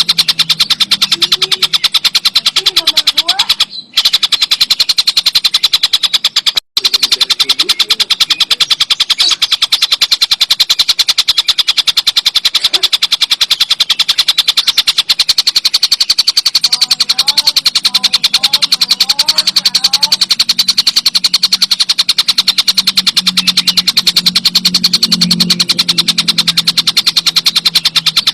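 Kingfisher (tengkek buto) giving a continuous, very fast rattling chatter, many pulses a second, broken by two short gaps about four and seven seconds in. Fainter short gliding notes sound underneath in the middle.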